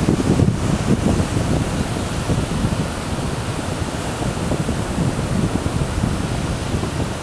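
Wind blowing over the microphone at the seashore, possibly mixed with surf: a steady low rushing noise that eases slightly after the first second or two.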